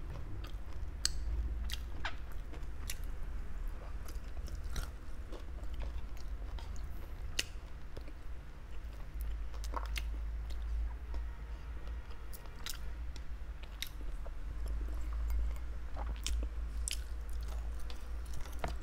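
A person chewing and biting barbecued meat close to the microphone, with many scattered sharp mouth clicks over a steady low hum.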